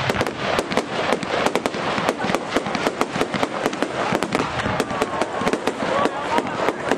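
Fireworks display: a rapid, unbroken string of sharp bangs and crackles from bursting shells, several a second, over a steady hiss.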